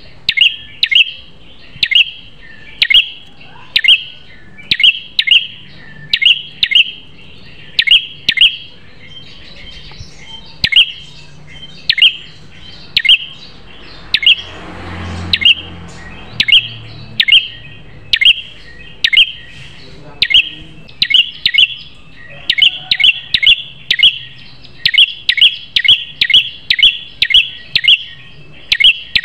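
Prenjak kepala merah (red-headed prenjak), a small songbird, calling in sharp, high chirps repeated one to three times a second, which bunch into quick rapid-fire runs in the latter part.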